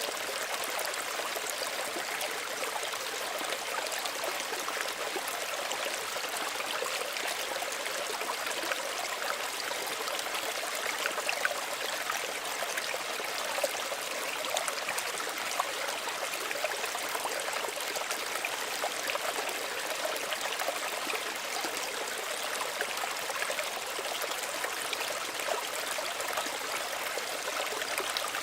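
Small stream of running water trickling and babbling steadily over stones, a continuous hiss with many small splashes and droplets.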